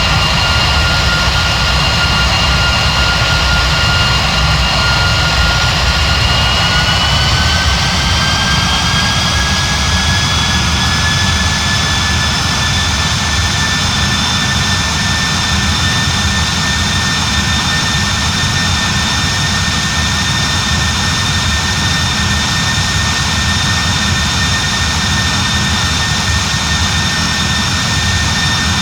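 Boeing 737 MAX 9's CFM LEAP-1B turbofan engines running, heard from inside the cabin: a steady deep rumble under a fan whine that rises in pitch about seven seconds in as thrust increases, then holds steady.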